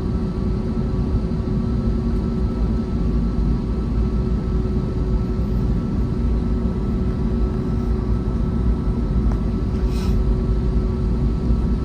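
Cabin noise inside an Airbus A321neo: the jet engines give a steady hum and rumble with a few held tones. The level stays even, with no spool-up.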